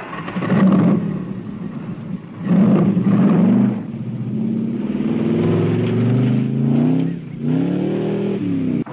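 Muscle car engine revving hard and accelerating away. Its pitch repeatedly climbs and falls back, with louder surges about half a second and two and a half seconds in.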